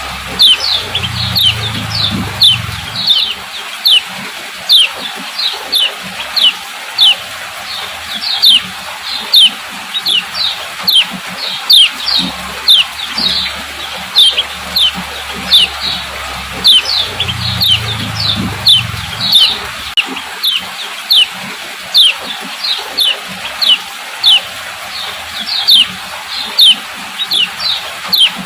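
Female common iora (kecial kuning) giving repeated sharp 'ciak' call notes: short downward-sweeping chips, about two to three a second, over a steady hiss.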